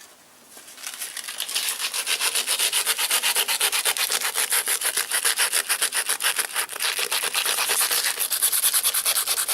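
Hand sanding of a powder-coated motorcycle part: quick, even back-and-forth scraping strokes, several a second. They start faintly and then settle into a steady rhythm as the abrasive takes off the powder coat and the rust beneath it.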